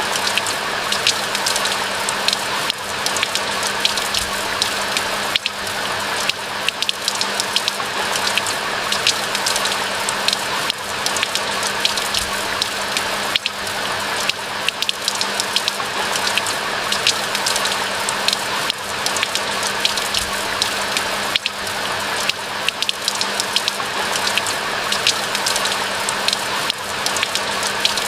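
Steady rain falling: a dense, even hiss with many sharp individual drop hits. A faint steady low hum runs underneath.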